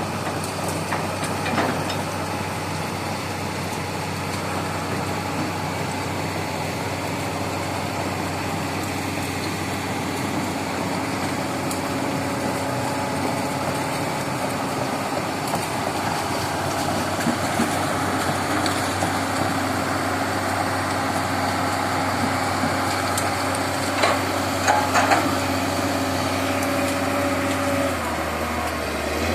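Crawler excavator's diesel engine running steadily as the machine travels on its tracks across swampy ground, with a few sharp knocks near the end.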